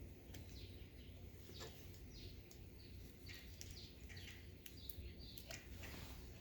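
Faint bird chirping: a run of quick, short falling notes, over a low steady hum with a few light clicks.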